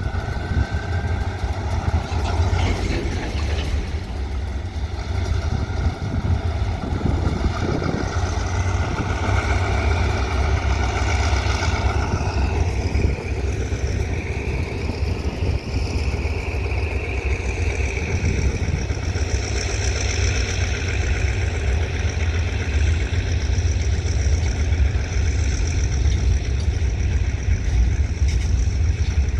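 Diesel train engine running with a steady low rumble, and high-pitched tones that drift up and down over it.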